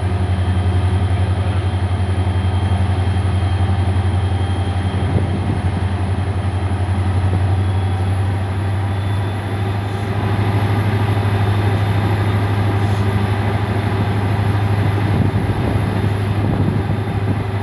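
Freight locomotive hauling a loaded BOXN coal train and working hard to get it moving up a gradient. A steady deep engine drone with fine even pulsing, and a faint high whine that rises slightly around the middle.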